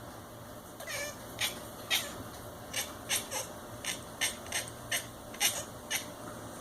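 Domestic cat making a rapid run of about a dozen short, high-pitched chirps while watching a fly, the excited prey-watching sound that cats make at insects they can't reach.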